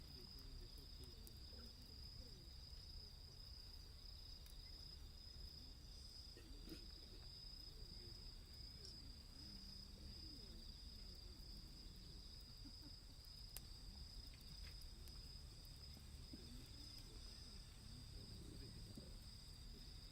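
Faint, steady high trill of night insects, with a few soft crackles from the wood fire, the clearest about two-thirds of the way through.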